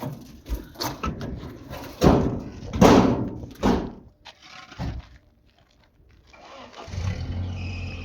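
Several knocks and thuds, the loudest about two to four seconds in, then after a short lull a motor starts and runs steadily near the end.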